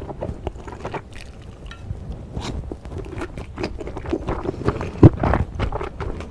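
Close-miked eating: a strand of chewy glass noodle is sucked in near the start, then a mouthful of noodles and beef is chewed with many short wet clicks and smacks. One louder mouth sound comes about five seconds in.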